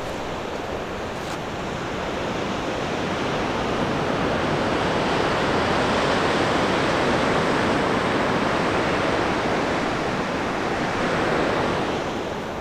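Ocean surf washing in: a steady rush of breaking waves that swells to a peak midway and eases off again near the end.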